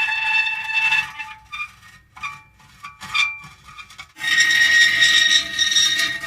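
Metal creaking: drawn-out, high-pitched groaning squeals that drop to a few short, scattered creaks for a few seconds in the middle, then swell back into a loud continuous creak about four seconds in.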